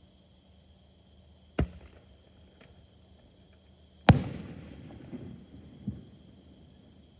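Aerial fireworks shells bursting: a sharp bang about a second and a half in, then a much louder bang about four seconds in that rumbles away over a couple of seconds, with two smaller pops in its tail.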